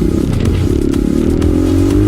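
Dirt bike engine running steadily under way, its pitch rising gently over the second half as the revs climb.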